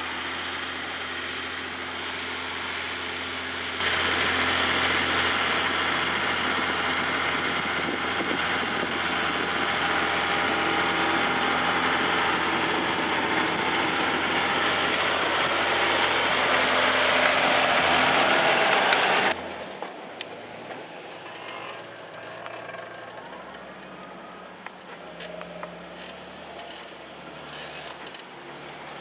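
John Deere 6150R tractor's six-cylinder diesel running steadily under load while plowing. It gets louder about four seconds in, then drops off abruptly about nineteen seconds in to a quieter engine hum with scattered clicks.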